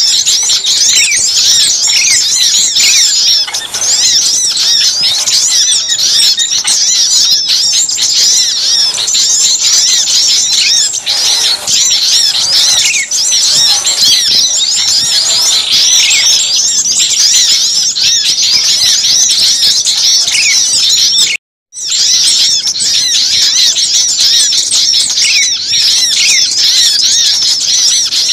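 Bird-lure recording of many small songbirds calling at once in agitation: a loud, unbroken din of high chirps, twitters and trills. It drops out completely for a split second about three quarters of the way through, a splice in the recording.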